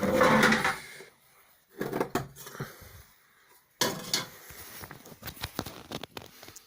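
Metal cleaning tool clattering and scraping against the brick inside a stove's flue channels, knocking loose soot, in irregular bursts of knocks and scrapes.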